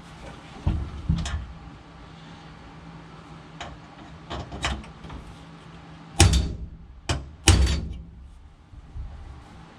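Hand tools knocking on metal: a few light knocks, then three sharp metallic strikes close together about six to seven and a half seconds in.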